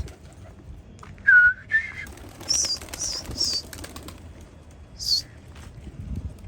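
Pigeons' wings flapping as the flock flies, with several short, high-pitched chirps: two lower ones just after a second in, three in quick succession about two and a half seconds in, and one more near the five-second mark.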